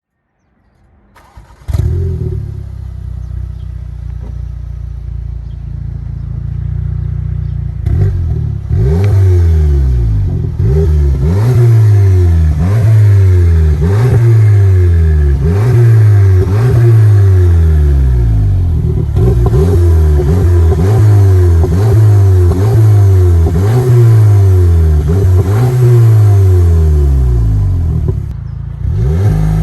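VW Polo GTI's turbocharged 2.0 TSI four-cylinder engine, with its exhaust mid-silencer deleted, starting up about two seconds in and idling. From about eight seconds it is revved over and over, its pitch rising and falling about once a second.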